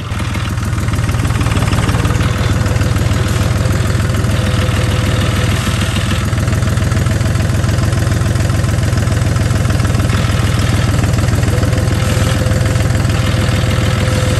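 Farm tractor engine running steadily, a loud, even low rumble.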